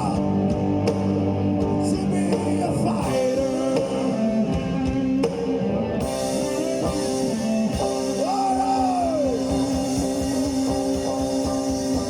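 Live punk rock band playing an instrumental stretch near the end of a song: electric guitars holding sustained chords over a drum kit, loud and steady.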